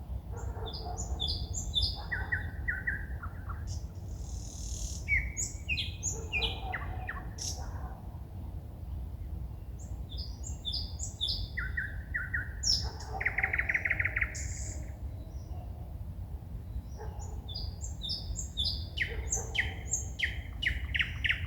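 A songbird singing at night in separate phrases of quick repeated notes, one phrase ending in a buzzy trill, with short pauses between phrases. A steady low rumble lies underneath.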